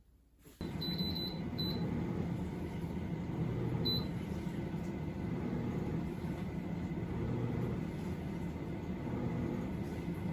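A steady low hum starts about half a second in. A quick run of short, high electronic beeps comes about a second in, and one more beep near four seconds, like button presses on an appliance's control panel.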